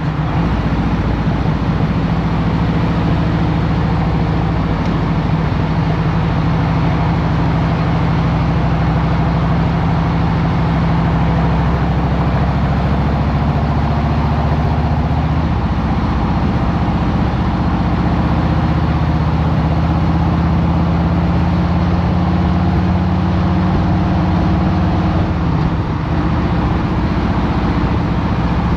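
Harley-Davidson Road Glide Special's Milwaukee-Eight V-twin running steadily under way, its pitch creeping up a little midway, with wind rush over it.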